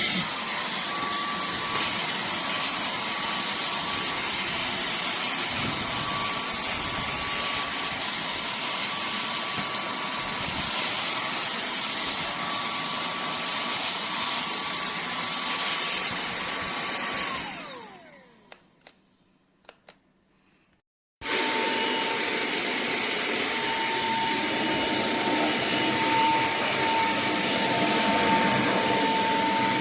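TANYO cordless handheld vacuum cleaner running steadily with a high motor whine. It is switched off about 17 seconds in and winds down, with a few faint clicks. It is running again from about 21 seconds in, at a lower whine pitch.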